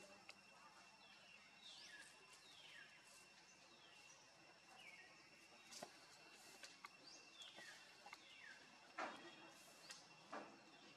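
Faint outdoor ambience: a bird calling in short falling whistled notes that come in small groups, over a steady thin high hum. A couple of soft knocks sound near the end.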